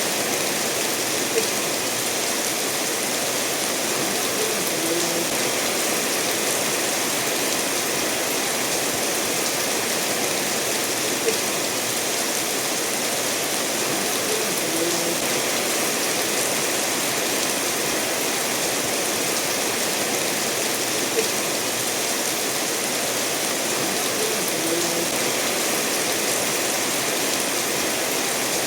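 Steady rain falling, mixed with a stream running over stones, as one even wash of water noise. A brief tick comes three times, about ten seconds apart.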